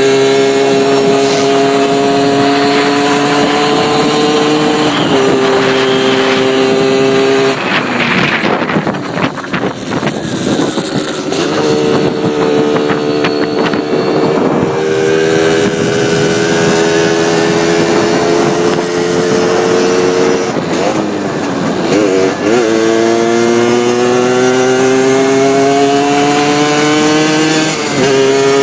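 Suzuki RG80 two-stroke single, with a 21 mm Dell'Orto carburettor and open intake, pulling hard through the gears while being ridden. The engine note climbs steadily in each gear and drops sharply at each gear change, about 5 s in, around 21–22 s and near the end. Between about 8 and 11 s the note breaks up into a rougher, noisier stretch.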